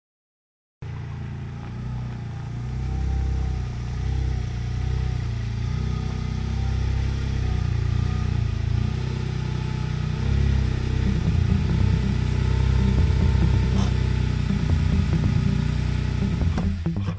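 Smart Roadster's small three-cylinder turbo engine running, slowly getting louder, cutting off near the end.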